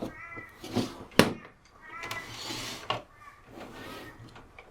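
A cat meowing several times in short calls, with a sharp click about a second in and a brief hiss a little after two seconds.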